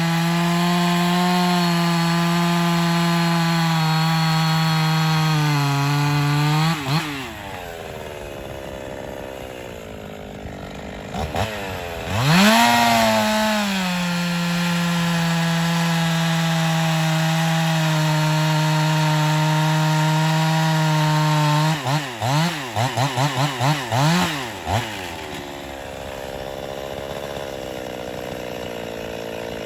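Finger-ported Husqvarna 50 two-stroke chainsaw cutting hickory at full throttle with a steady pitch, then dropping to idle about seven seconds in. It revs up again, makes a second long cut, and near the end gives several quick throttle blips before settling back to idle.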